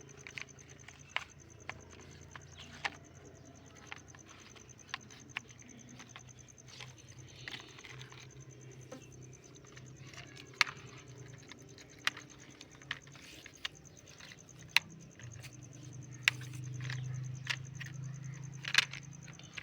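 Irregular light clicks and taps, like small hard objects being handled and set down, a few each second with some sharper ones standing out, over a steady low hum.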